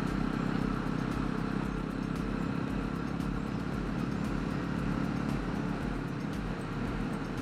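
Jawa 42 motorcycle's single-cylinder engine running steadily at cruising speed, with a rush of wind and road noise over it.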